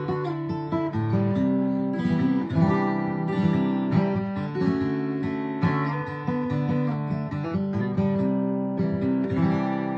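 Acoustic guitar playing an instrumental passage of a slow song: strummed chords with no singing.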